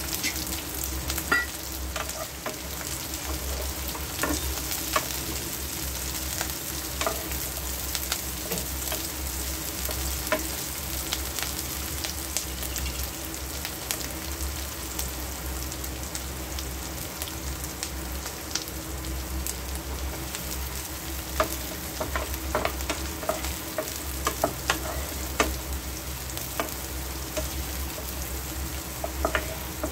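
Paneer masala frying and sizzling steadily in a pan as it is stirred, with the spatula clicking and scraping against the pan now and then.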